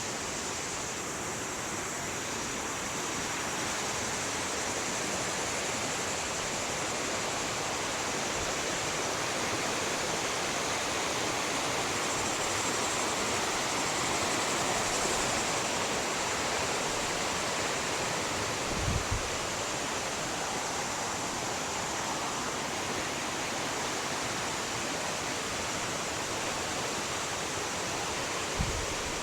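Fast river water rushing steadily over rocks, an even roar that holds throughout. Two brief low thumps, one past the middle and one near the end.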